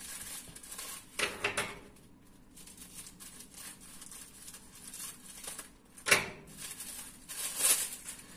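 Thin plastic of a disposable pocket raincoat crinkling and rustling as it is unwrapped and unfolded by hand, in a few short bursts, the sharpest about six seconds in.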